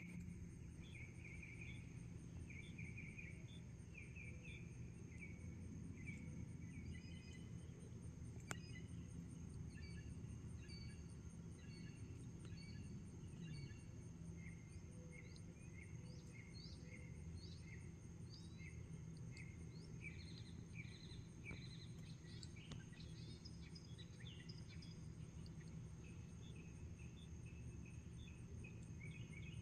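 Quiet outdoor nature ambience: birds chirping in short repeated calls over a steady high insect drone and a low background rumble, with a single sharp click about eight seconds in.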